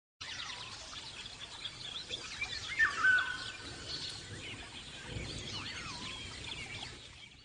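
Birds chirping and whistling, many short overlapping calls with a louder whistled call about three seconds in, fading out near the end.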